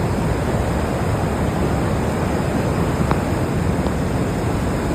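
Steady rushing of a flash flood's muddy water pouring through a creek channel.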